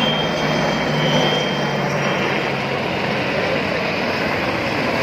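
Military aircraft engine noise at an air show, a steady loud rush with a low hum and a faint high whine that fades out about two seconds in.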